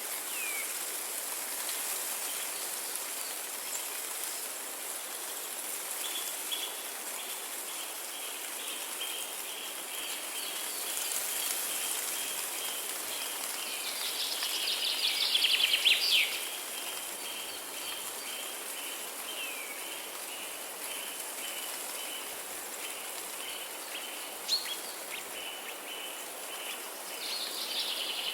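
Nature ambience: a steady hiss of water under birds calling, with a steady pulsing chirp about two or three times a second through most of it. A rapid bird trill is the loudest sound, about halfway through, and another trill comes near the end.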